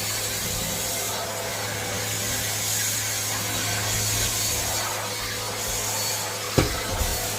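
Henry vacuum cleaner running steadily with a constant low hum under its rushing air. There is a single sharp knock about six and a half seconds in.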